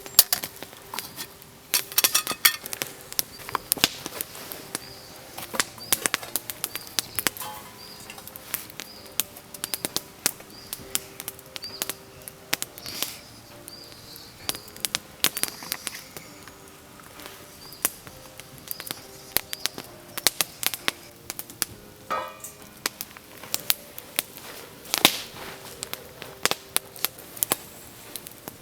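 Wood campfire crackling, with frequent irregular sharp snaps and pops.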